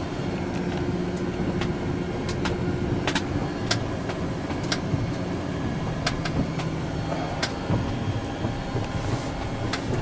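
Steady low rumble and hum inside an airliner's flight deck while it is towed by a tug, with scattered sharp clicks. The hum drops away about three-quarters of the way through.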